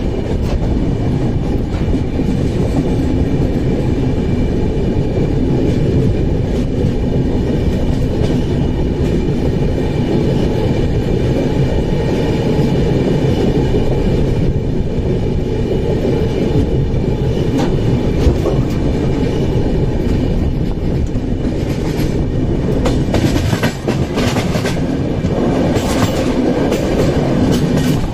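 Passenger express train coaches running at speed, heard from on board: a steady rumble of wheels on the rails. Sharp clicks from the wheels over rail joints come in the last few seconds.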